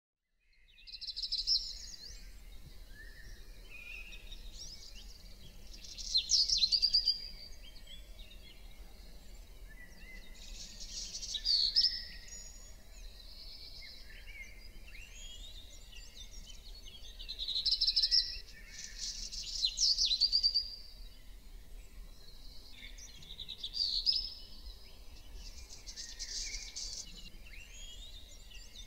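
Songbirds singing and chirping, with a louder phrase of song every five seconds or so and quieter calls in between, over a faint steady low hum.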